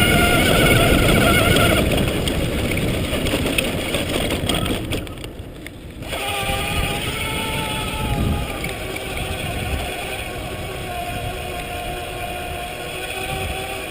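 Electric bike motor whining steadily under load, over the rumble of riding wind on the microphone. It cuts out briefly about five seconds in, then comes back at a lower pitch.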